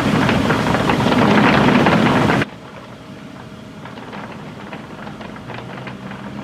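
Heavy rain pouring down, loud and dense. About two and a half seconds in it cuts off abruptly to a much quieter patter of rain with scattered drips.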